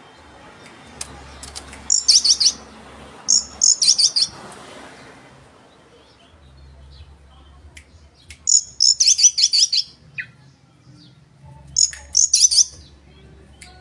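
Oriental magpie-robin (kacer) in full song, giving short bursts of rapid, high chirping phrases, four of them spaced across a few seconds.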